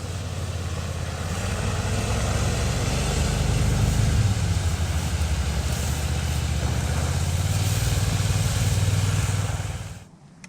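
Boat engine running steadily with a low hum, which stops abruptly about ten seconds in.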